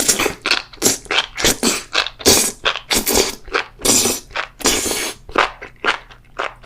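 Close-miked eating of enoki mushrooms in a spicy dish: a quick run of wet slurps and chews, three or four a second, a little quieter near the end.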